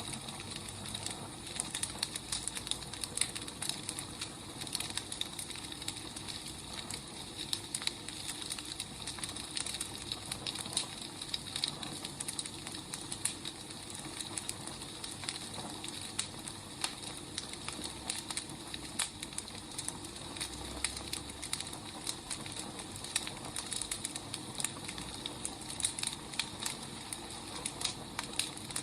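Firewood burning, crackling steadily with frequent irregular sharp pops and snaps over a soft hiss.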